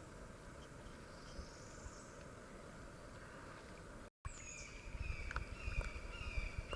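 Quiet outdoor summer ambience with faint hiss; after a brief dropout about four seconds in, a short chirp repeats about twice a second, each note falling slightly in pitch, with a few light knocks.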